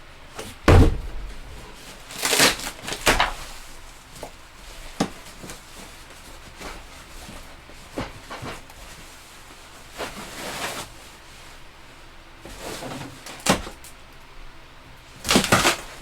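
Intermittent knocks, thumps and scraping handling sounds in a small room. The loudest is a thump about a second in, with a short clatter soon after and another burst near the end.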